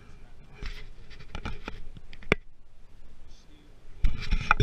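Scattered clicks and knocks on a boat, with one sharp click a little past halfway and a cluster of heavy thumps near the end.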